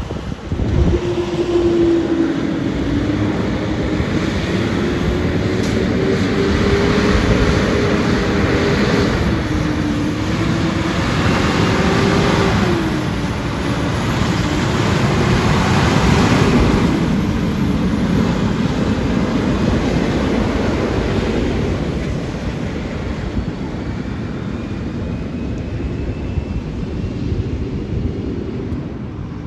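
Heavy vehicle engine running at a demolition site, its pitch rising and falling with throttle over a continuous rumble.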